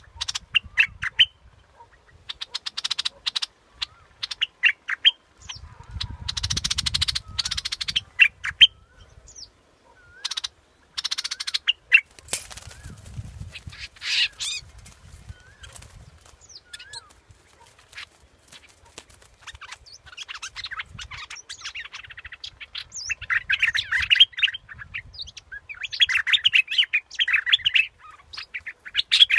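A bulbul calling: short chirps and bubbling, chattering phrases, coming in quick runs and thickest in the last third, with a few brief rushing noises between them.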